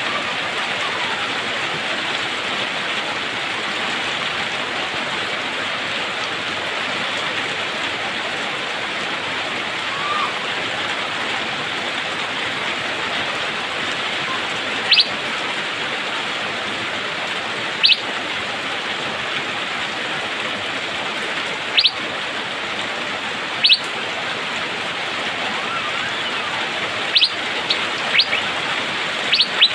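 Steady rain, with short sharp chirps from an Asian fairy-bluebird (cucak biru) starting about halfway through, a few seconds apart at first and coming quicker near the end.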